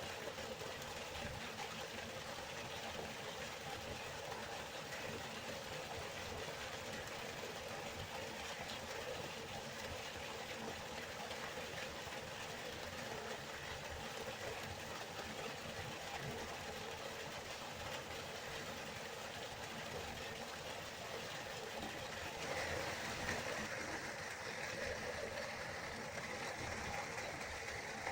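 River water flowing in a steady rush, swelling slightly about three-quarters of the way through.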